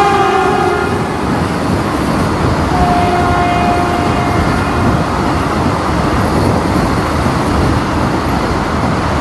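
Passing train: a loud, steady rush and rumble of wheels and carriages on the rails. The end of its horn dies away in the first half second, and a brief faint horn note sounds about three seconds in.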